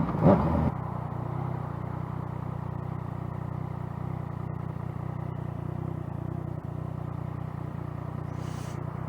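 Yamaha FZ-09's three-cylinder engine running steadily at an even, unchanging pitch, after a louder patch in the first second. A brief hiss comes near the end.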